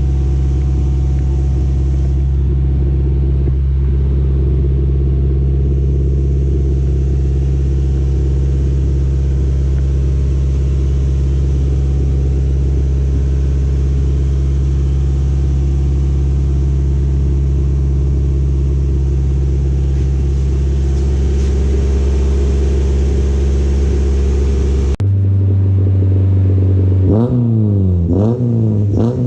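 Honda Civic EG four-cylinder engine running through a K-Tuned 2.5-inch titanium straight-through exhaust with no catalytic converter or resonator, idling steadily, apparently after a cold start. About 25 seconds in the idle note changes abruptly, and near the end the engine is revved up and down about three times.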